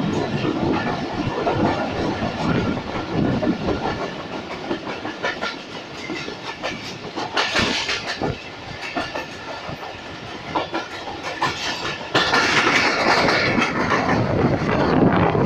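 Moving passenger train heard from an open coach doorway: a steady rumble of wheels on rails with rapid clickety-clack over the rail joints. About twelve seconds in it turns suddenly louder and stays louder, as the coach runs onto a bridge.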